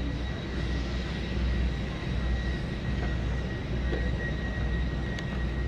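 Jet aircraft engine running steadily on the ground, a continuous low rumble with a thin, steady high-pitched whine over it.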